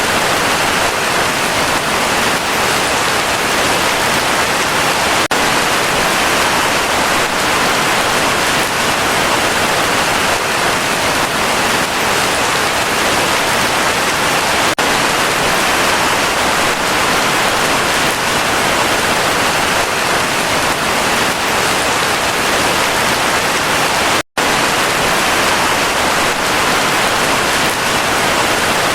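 Heavy rain falling in a steady, even hiss, with a split-second dropout in the sound about three-quarters of the way through.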